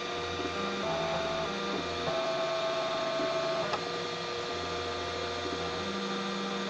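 3D printer running, its stepper motors whining in steady tones that jump to a new pitch every second or so as the moves change, with a short click a little past halfway.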